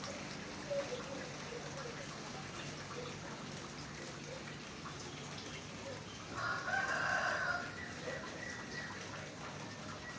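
A rooster crows once, starting about six seconds in and lasting about a second and a half, over the steady hiss of rain.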